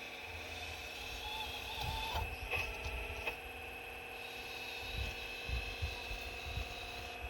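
Excavator working rocks: a steady mechanical whine from its drive and hydraulics, with low knocks and thuds about two seconds in and again a few seconds later as the bucket digs.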